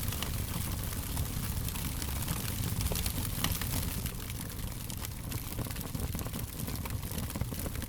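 Fire crackling: frequent small snaps and pops over a steady low rumble and hiss.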